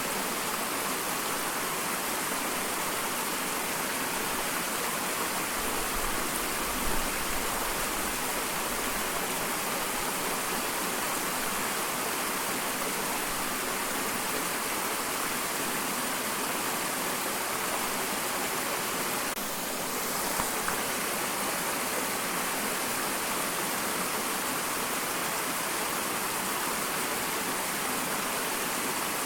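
Small waterfall: a steady, even rush of falling and splashing water, with a brief low rumble about seven seconds in.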